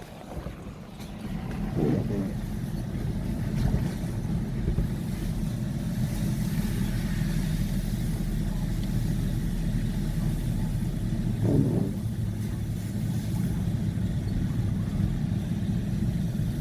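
Car driving on the road: steady low rumble of engine and road noise, with two brief swells.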